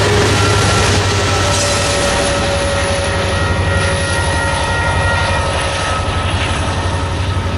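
Freight train cars rolling past at a level crossing: a steady rumble and rattle of wheels on rail, with thin drawn-out squeals from the wheels coming and going.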